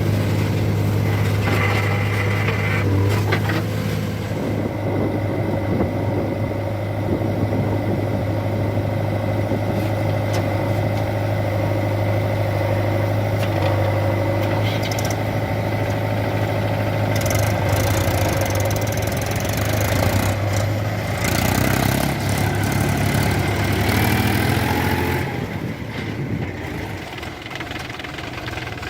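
Diesel engine of the earthmoving and tractor machinery running steadily, with some brief clatter in the middle; about 25 seconds in its note drops and it grows quieter.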